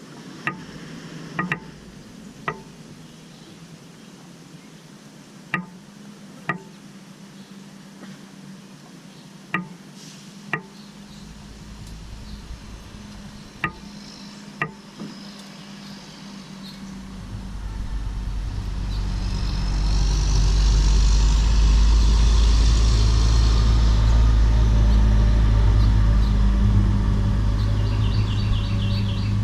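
Sharp knocks, mostly in pairs about a second apart, every few seconds. From about halfway a motor vehicle approaches and passes: a low rumble and tyre hiss swell up, are loudest a few seconds later and then ease off a little.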